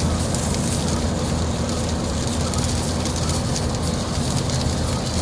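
Heavy thunderstorm rain pouring steadily: a dense, even hiss of drops over a constant low rumble.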